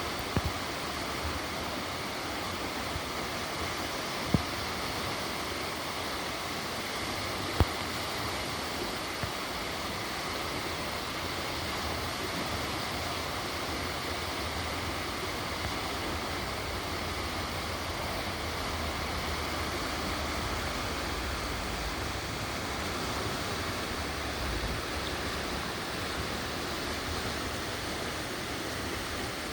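Chamberlain Creek running high after heavy rain: a steady rush of fast water over rocks. Two sharp clicks stand out, about four and seven and a half seconds in.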